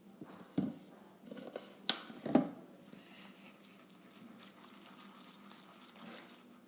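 Homemade slime of wheat flour, shampoo and cooking oil being worked in a bowl: a few short wet sounds in the first couple of seconds, then only faint handling sounds.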